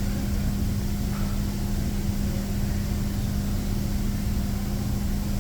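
Steady machine hum with one constant low tone and a rumble beneath it, unchanging in level.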